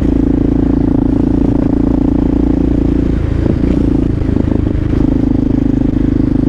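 Motorcycle engine running steadily while riding, heard from the rider's position, over a low rumble. About three seconds in its steady note breaks up for a couple of seconds, then settles back to an even note.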